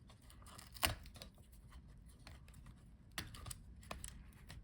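Faint handling noises of parts and cables inside an opened laptop: light rustling, a sharp click about a second in and a few smaller clicks later.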